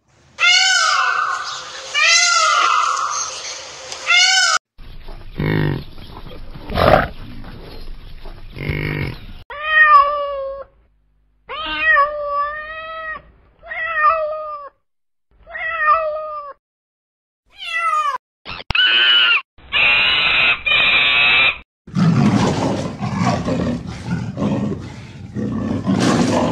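A run of separate animal sound clips, one after another. It opens with a peacock's loud calls, has a string of short domestic cat meows in the middle, and ends with a leopard's rough, rasping call. Other animal calls fill the gaps between these.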